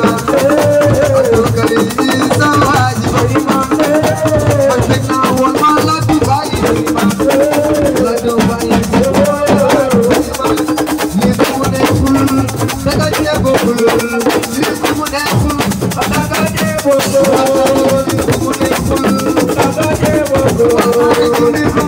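Assiko band music: a fast, steady shaker-and-drum rhythm under a wavering melody line.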